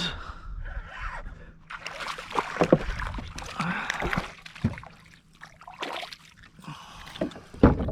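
A small redfish splashing and thrashing at the surface beside a kayak as it is reeled in and landed, with water sloshing and dripping and a few sharp knocks of handling against the kayak, the loudest near the end.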